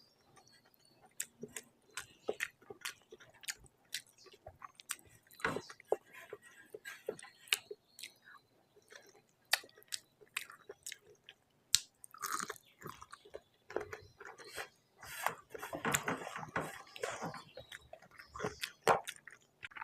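Close-miked chewing and mouth sounds of someone eating rice and fish curry: scattered wet clicks and smacks, with a few longer, noisier stretches of chewing.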